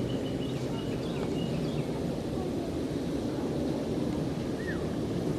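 Outdoor ambience: a steady low rumble with a few faint, short bird chirps, one falling in pitch near the end.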